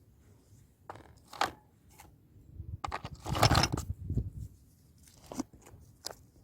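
Crunching, rustling handling sounds in several short bursts, the longest and loudest about three and a half seconds in.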